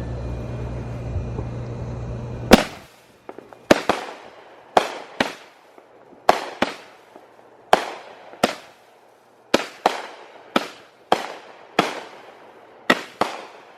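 Consumer firework cake going off: after a low steady rumble that stops about two and a half seconds in, a loud first bang starts a quick run of about fifteen sharp bangs, many in close pairs, each with a short ringing tail.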